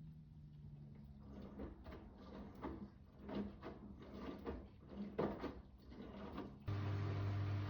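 Miele W2 front-loading washing machine mid-wash: the drum turns with a low motor hum while the wet denim load tumbles with irregular soft thuds and swishes. Near the end a louder steady machine hum starts abruptly.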